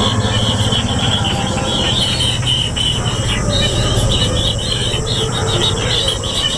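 Kingfisher nestlings giving continuous, rapid, buzzing begging calls that flicker and break up irregularly, over a low steady rumble.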